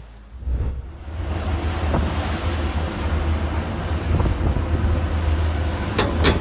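Wind buffeting the microphone as a steady low rumble, over the wash of water, with a few sharp clicks near the end.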